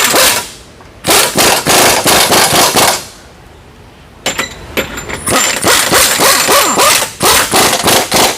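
Impact wrench hammering subframe bolts tight in two long rattling bursts, the first about a second in and the second near the middle, running into the end.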